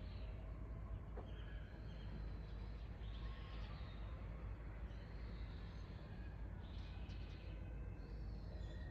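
Small birds chirping in short calls every second or two, over a steady low background rumble.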